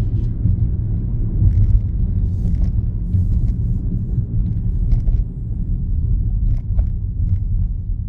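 Steady low rumble of a car heard from inside the cabin, engine and road noise, with a few faint scattered ticks.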